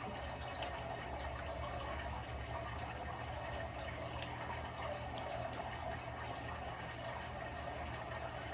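Steady low hum and hiss of room background noise, with a few faint clicks.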